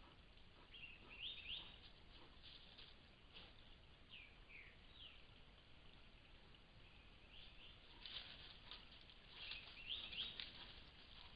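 Faint, short bird chirps in a few small clusters over a low hiss, with scattered soft rustles and ticks.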